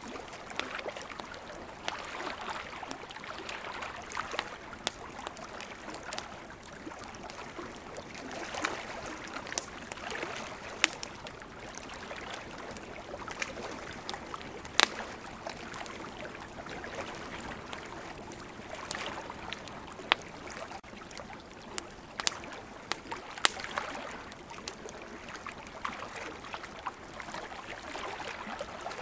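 Wood campfire crackling, with scattered sharp pops, the loudest about halfway through and again near the three-quarter mark, over the steady wash of ocean waves swelling and fading every few seconds.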